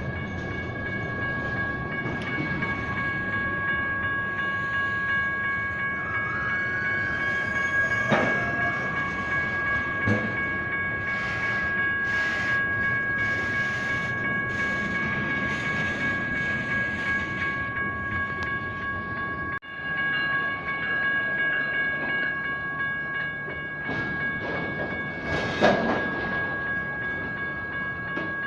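Railroad crossing signals' General Signals Type 1 electronic bells ringing steadily while a freight train rolls through, its wheels rumbling and clacking over the rails with scattered knocks and a brief rising squeal.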